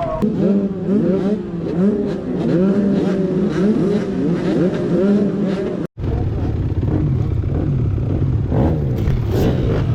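250-class motocross bike engine revving hard, its pitch climbing and falling again and again as the throttle is worked through the gears. The sound cuts out for an instant about six seconds in, then the engine carries on at a lower pitch.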